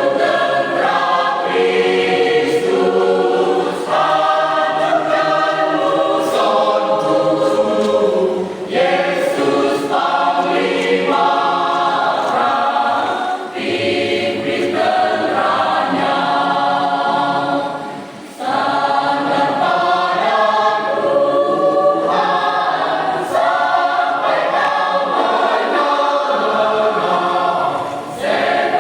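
Church congregation choir singing together, in phrases with short breaks between them.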